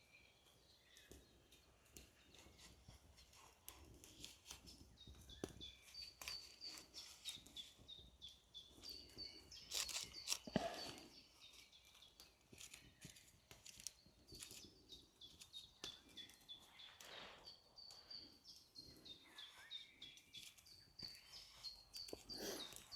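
Faint small birds calling in the forest, short high chirps repeated again and again, with scattered sharp clicks and a few brief rustling or crunching noises.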